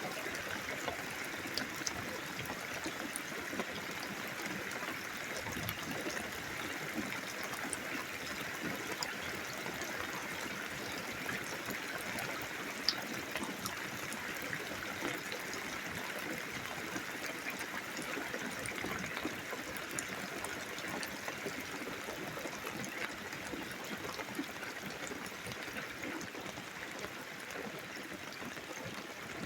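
Steady rain from a thunderstorm, a continuous hiss of falling and running water with small scattered ticks of drops.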